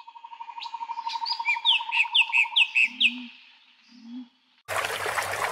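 Birds singing: a fast, even trill with a run of quick, descending chirps over it. Near the end the rush of running water cuts in suddenly.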